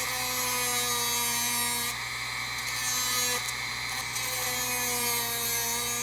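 Dremel rotary tool sanding the trailing edge of a varnished wooden wing rib, running steadily with a brief dip in its pitch twice as the bit loads against the wood.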